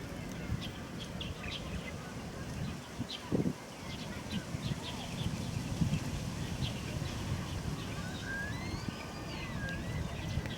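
Birds chirping: a stream of short high chirps, with a wavering, gliding whistled call about eight seconds in, over a steady low rumble of background noise.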